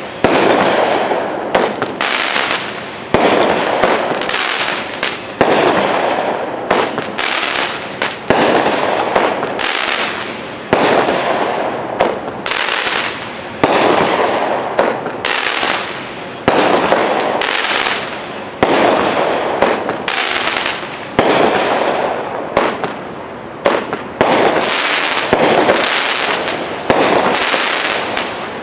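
A 500-gram, 48-shot consumer firework cake firing shot after shot. A sharp bang comes every two to three seconds, and each fades away in a spray of crackling.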